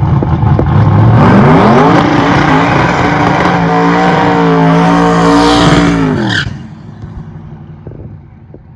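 Turbocharged drag race car at full throttle, its engine note rising about a second in and then holding high and loud. About six and a half seconds in the pitch drops and the sound suddenly falls away as the car runs off down the track.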